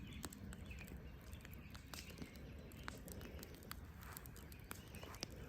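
Campfire crackling faintly, with scattered, irregular small pops and clicks over a quiet outdoor background.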